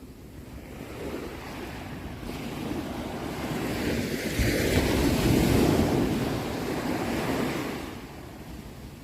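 Ocean waves breaking on a shore: one wave builds over a few seconds, crashes loudest around the middle and washes back out near the end.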